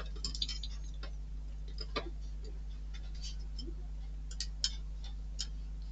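Light, scattered clicks and taps of small model-kit parts being handled and fitted, a few seconds apart, over a steady low electrical hum.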